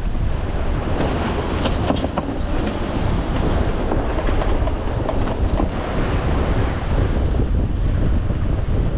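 Strong wind buffeting the microphone over the rush and splash of water along a sailing yacht's hull in rough seas. There are a few sharp splashes or crackles about two seconds in and again around five to six seconds.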